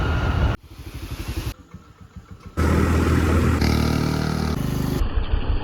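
A motorcycle engine running and revving in a string of short clips that cut abruptly from one to the next.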